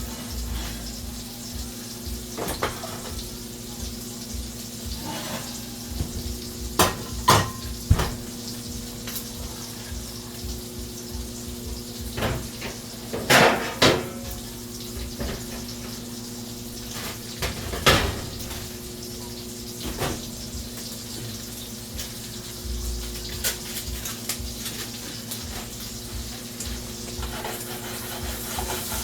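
Dishes and utensils clattering and knocking in a kitchen, with several louder clinks about 7–8, 13–14 and 18 seconds in. Underneath, a tap runs into a sink with a steady hiss, along with a steady low hum.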